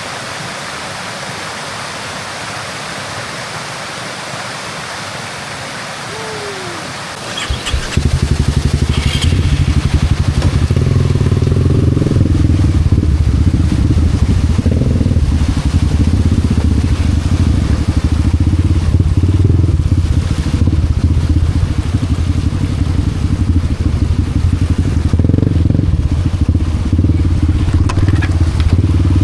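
Steady rushing water of a waterfall, then about seven and a half seconds in the much louder sound of a Honda Wave 125 motorcycle's single-cylinder four-stroke engine comes in and keeps running steadily at low revs.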